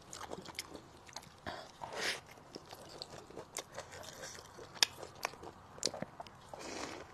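Close-miked chewing and biting of food, with moist mouth smacks and scattered sharp clicks.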